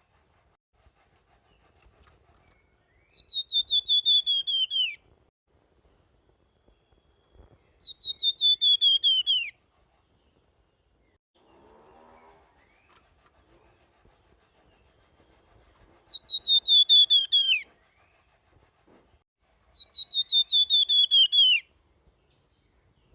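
Songbird known to Indonesian keepers as the flamboyan, singing its whistled 'nyuling' song: four phrases of about two seconds each, every phrase a fast run of clear notes that slide downward, with quiet gaps between.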